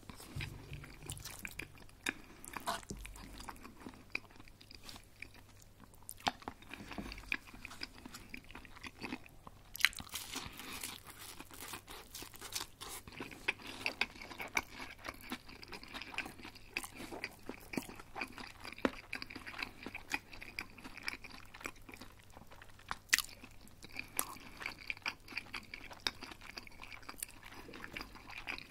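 A person chewing and crunching crispy breaded chicken schnitzel, with irregular crisp crunches.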